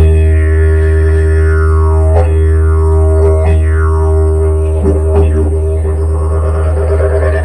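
Didgeridoo drone starting abruptly, with the player's voiced calls through the instrument sliding down in pitch again and again, imitating a kookaburra's laugh.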